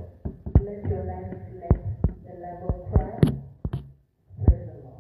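Voices, with about a dozen sharp thumps at uneven spacing and a brief gap about four seconds in.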